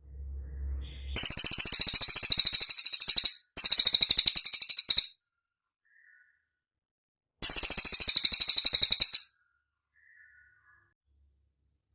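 Cililin songbird singing: three loud, very rapid high-pitched trills of about one and a half to two seconds each, with a few faint short notes between them. A low rumble runs through the first second, before the first trill.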